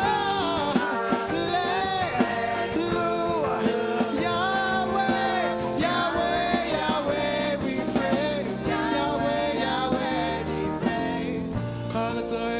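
Live gospel song: a singer's voice over a full backing band, the praise song running on without a break.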